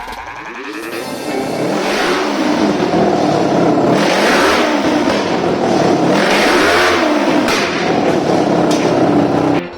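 Kawasaki GPZ 500S parallel-twin motorcycle engine on a motorised shopping cart, revving up and down repeatedly, then cutting off suddenly near the end.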